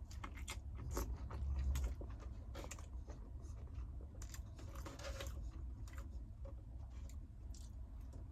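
Irregular small clicks and crunches close to the microphone over a steady low rumble.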